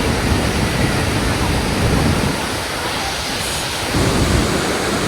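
Steady rushing roar of Iguazu Falls, with wind rumbling on the microphone that eases for about a second midway.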